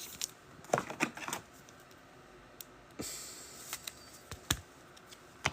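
Trading cards being handled on a table: scattered light clicks and taps, with a short sliding rustle about three seconds in.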